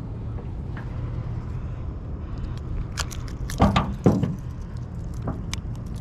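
Metal pliers and tackle being handled in a boat: a few sharp clicks and clinks, the loudest about three and four seconds in, over a steady low rumble.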